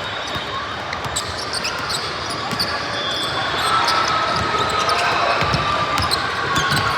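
Basketball game sounds in a gym: the ball bouncing on the court, with short high squeaks and a background of voices.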